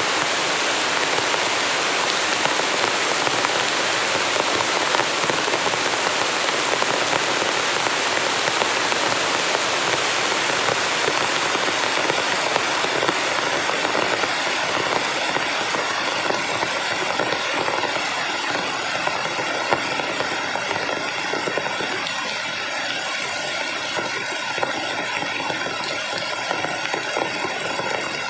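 Heavy rain falling steadily as a dense, even hiss, easing slightly in the last third.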